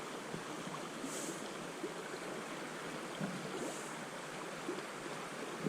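Steady rush of a river's flowing current, a river running a little high after rain.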